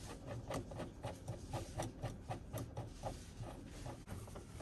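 Screws being driven in with a screwdriver during reassembly of a washing machine: a steady run of small clicks and scrapes, about four a second.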